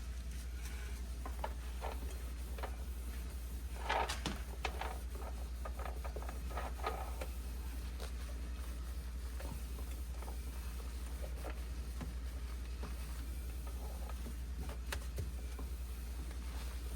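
Scattered light clicks, taps and knocks of things being handled, with a cluster about four seconds in and another a few seconds later, over a steady low hum.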